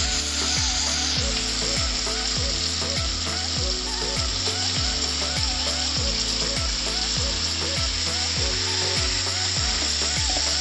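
Marinated chicken pieces sizzling as they go into hot ghee and mustard oil in a kadhai, a steady frying hiss with a spoon stirring them in. Background music with a steady beat runs underneath.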